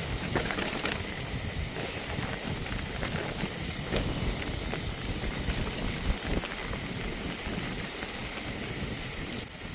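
Steady rushing hiss, typical of wind on the microphone while moving, with scattered knocks and rustles. A loud, shrill, high-pitched squeal starts near the end.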